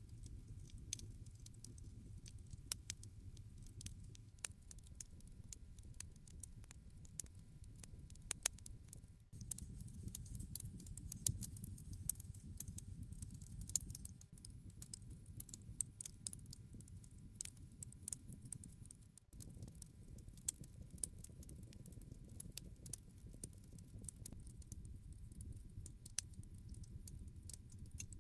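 Campfire crackling: a low steady rumble of burning wood, with many sharp pops and snaps scattered throughout. The sound dips briefly about nine and nineteen seconds in.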